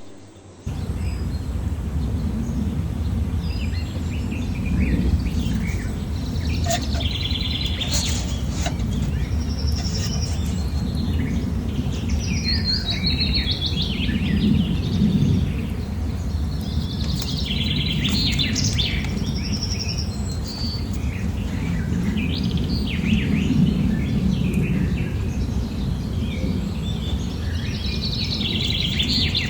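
Birds chirping and calling, with many short high notes and quick trills, over a steady low rumble of background noise.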